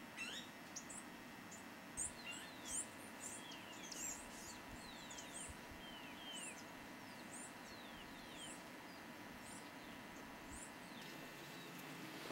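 Birds calling: a series of short, high chirps repeated roughly twice a second, mixed with lower slurred notes. The calling stops a second or so before the end.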